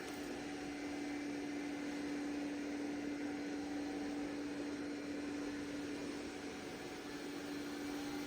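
Roborock Qrevo Curv robot vacuum running: a steady motor and fan whir with a constant hum.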